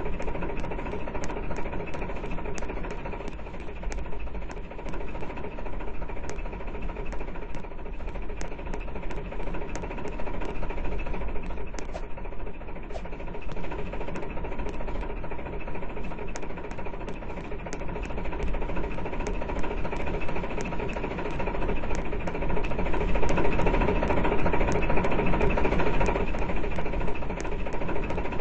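A train's engine running with a steady mechanical drone and frequent sharp ticks, a few a second, growing louder about twenty-three seconds in.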